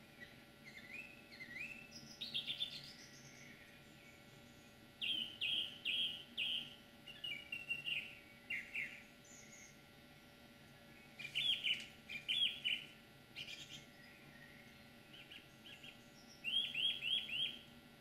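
A songbird singing in four phrases of quick, repeated high notes, with pauses of a second or two between phrases.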